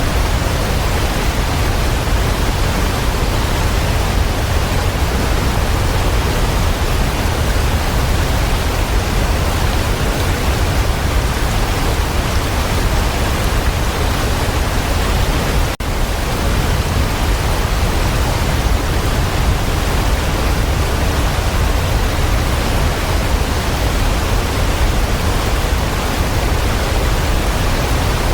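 Waterfall, water falling and splashing in a steady, even rush with a deep low rumble, broken once by a momentary dip a little over halfway through.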